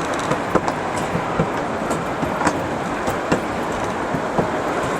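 Passenger train running along the track: a steady rumble of the moving cars with irregular clicks and knocks from the wheels passing over rail joints.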